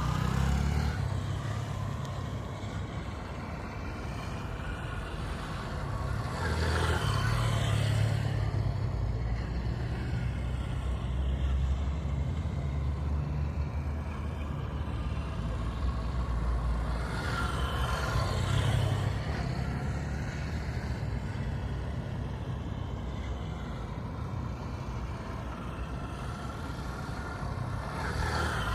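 Motorcycle engines running steadily, with a low drone throughout, swelling as machines ride past several times about every ten seconds.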